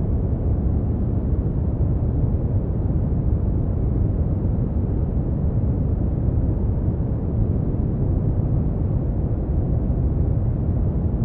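Brown noise: a steady, deep rushing hiss, heaviest in the low end and rolling off toward the highs, with no change.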